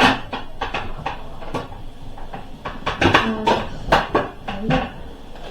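Irregular clicks, knocks and clatters of laundry things being handled: the washing-powder scoop and containers being moved and set down.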